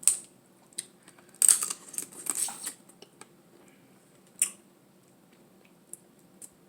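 Eating sounds: scattered sharp clicks and wet crunches from eating Dungeness crab in sauce, with a dense run of crunching from about one and a half to nearly three seconds in and a single sharp crack a little after four seconds.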